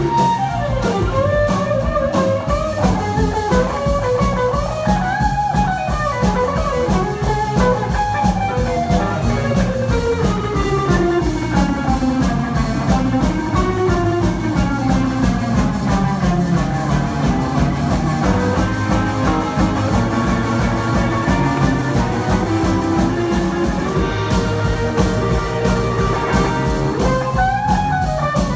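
Live band playing an instrumental passage: guitar over a drum kit keeping a steady beat, with a melody that slides slowly downward in pitch near the middle.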